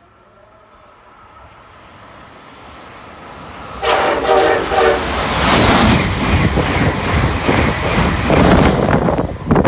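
Amtrak Acela Express high-speed train approaching with a steadily rising rumble. About four seconds in it sounds its horn for about a second, then runs past at speed with a loud rushing noise and rapid wheel clicks.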